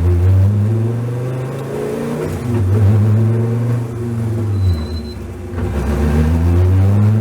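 Dodge Viper's V10 race engine driving under throttle. The engine note climbs, then dips and climbs again twice, about two and a half seconds apart, as the car pulls.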